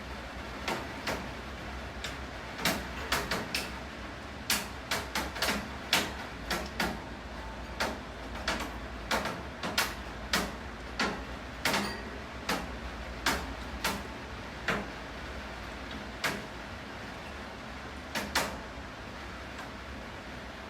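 Rain with heavy water drops tapping irregularly on a hard surface, about one or two sharp taps a second, over a steady hiss of rain.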